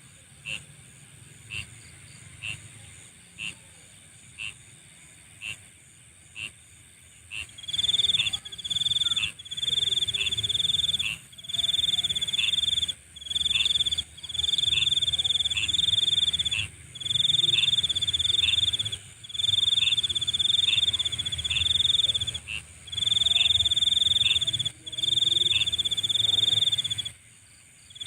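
Night insects calling: a high chirp repeating about once a second, then from about eight seconds in a louder, high-pitched trill that comes in bursts of one to two seconds with short breaks between them.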